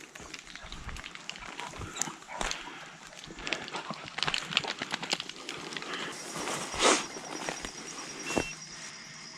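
Deer hound working through dry brush: irregular rustling and twig snaps, with one louder crackle about seven seconds in.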